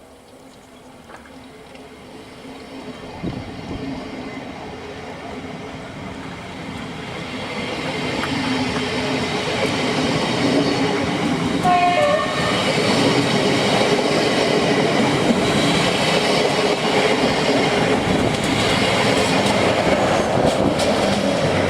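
A train approaching on the track, growing steadily louder over about ten seconds, then running close by with continuous rail and wheel noise. A brief high-pitched tone sounds about halfway through, and again near the end.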